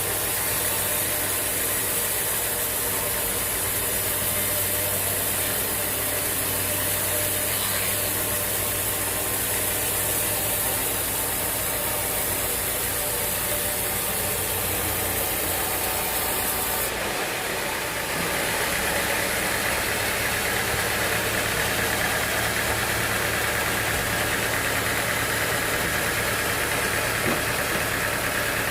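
Sawmill machinery running steadily on engine power, its tone shifting about two-thirds of the way through.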